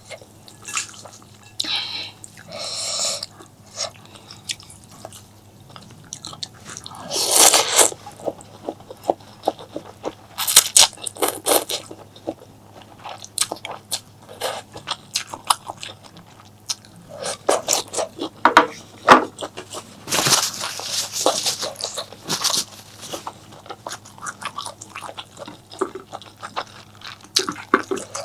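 Close-miked eating sounds: a person chewing and biting food, with many short wet clicks and irregular crunches. Two longer, louder noisy stretches come about 7 and 20 seconds in.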